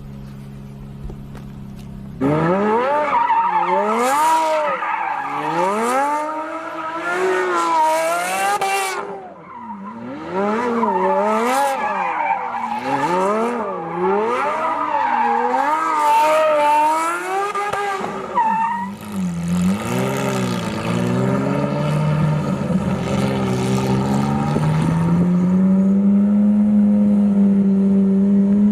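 A car engine runs low and steady, then about two seconds in breaks into hard revving, the revs swinging up and down roughly once a second over the screech of spinning tyres, as in drifting or donuts. Near the end the revs climb and hold steady.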